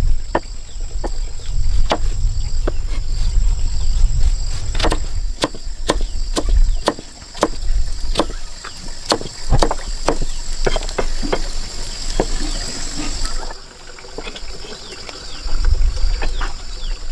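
A string of sharp knocks and taps, about one or two a second, which thin out and stop about three quarters of the way through. Under them runs a steady high insect drone, which fades out around the same point, and a patchy low rumble.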